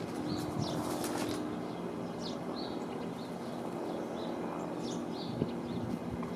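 Small birds at a backyard feeder giving short, scattered chirps and call notes, with a few sharp ticks in the first second, over a steady low hum.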